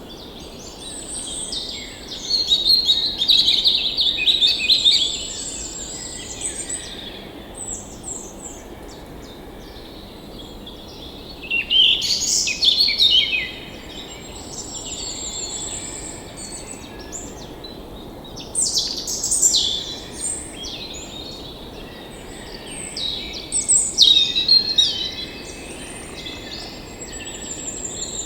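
Several songbirds chirping and trilling in loud bouts of a few seconds each, over a steady low background rush.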